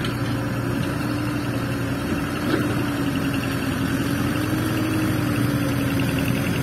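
Loaded diesel dump truck engine running steadily at low revs, an even low hum with a steady droning tone.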